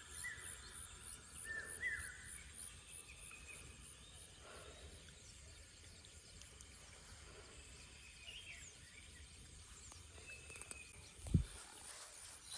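Faint rural ambience of small birds chirping and whistling, busiest in the first couple of seconds, over a steady high insect drone. A brief low thump comes near the end.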